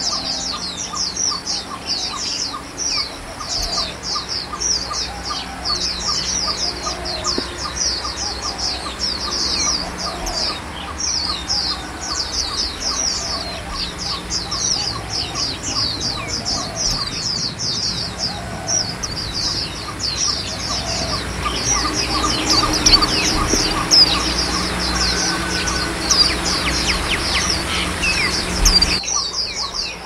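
Small songbirds twittering: a continuous run of rapid, short, high-pitched chirps, with a lower note repeated in a quick, even series beneath it.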